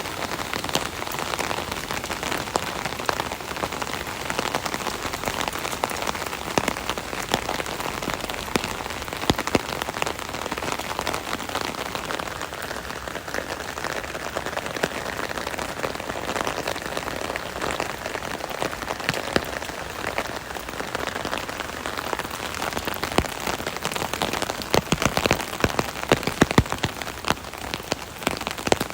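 Rain pattering on an umbrella canopy overhead: a steady dense patter of drops with many sharp individual drop ticks, a few heavier clusters of drips near the end.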